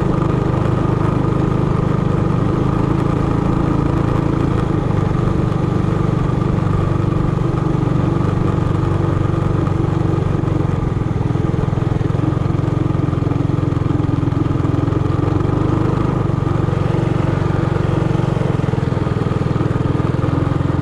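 Minibike engine running steadily at an even, unchanging pitch, with no revving.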